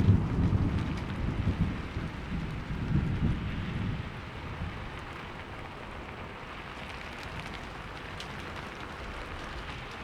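Thunderstorm: steady heavy rain, with a rolling thunder rumble at the start that dies away about four seconds in, leaving rain patter with scattered drips.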